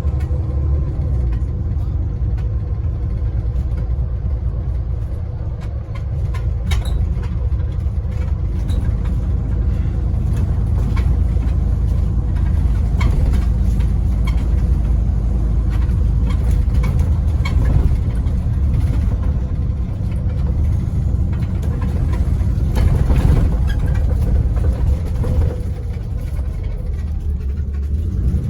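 Scania N94UD OmniDekka double-decker bus heard from inside while under way: a steady low engine and road rumble, with occasional knocks and rattles from the body.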